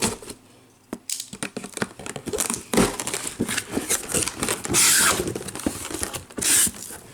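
Cardboard and plastic packaging crinkling and rustling in irregular handling noises as a shipping case of blister-carded Hot Wheels cars is unpacked, with two louder rustles about five and six and a half seconds in.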